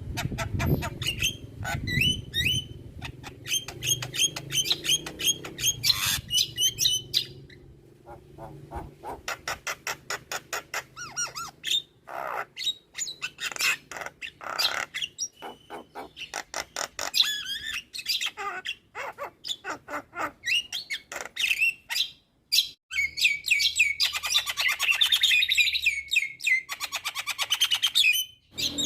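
Javan myna (jalak kebo) singing a long, varied song of rapid chattering notes, whistles and squawks, with fast runs of clicking repeats. The song breaks off abruptly a few times, as between spliced passages.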